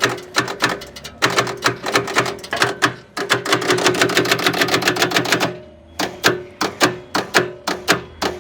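Starter of a Kobelco SK160 excavator clicking rapidly, about five or six clicks a second with a few short breaks, as it is engaged against a diesel engine that is locked up and will not turn.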